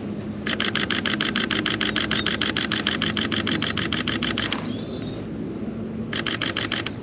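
Sony A7R V camera's shutter firing in fast continuous bursts of about ten frames a second. One burst runs about four seconds, and a second starts about six seconds in.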